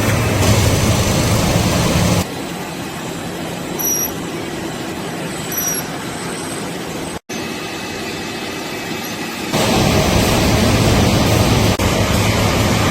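Steady noise of a factory frying-line's machinery, with a low hum. It drops to a quieter stretch for several seconds, during which there are two brief high squeaks, then comes back at full level.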